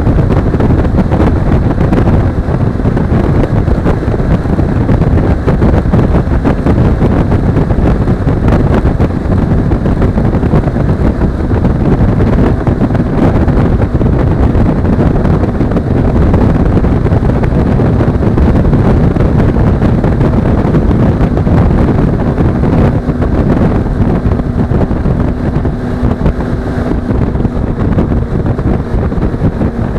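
Wind rushing over an action camera's microphone on a moving Suzuki V-Strom 250 (DL250) motorcycle, with the bike's parallel-twin engine running steadily underneath.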